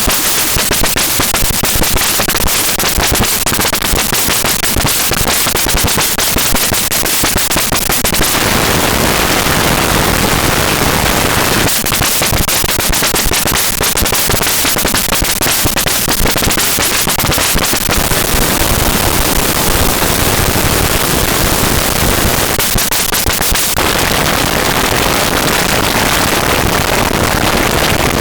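Paratek "Kosmicheskiy Shum" Eurorack module, a Jupiter Storm-style noise source built on square-wave oscillators, putting out a loud, harsh noise texture full of rapid clicks. Its character shifts about eight, twelve and twenty-four seconds in.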